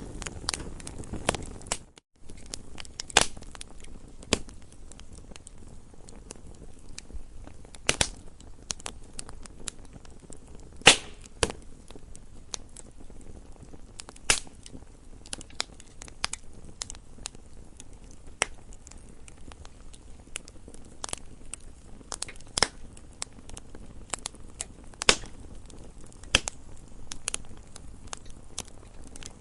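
Campfire crackling: irregular sharp pops and snaps of burning wood over a soft low rumble, with a few louder pops every few seconds. The sound cuts out for a split second about two seconds in.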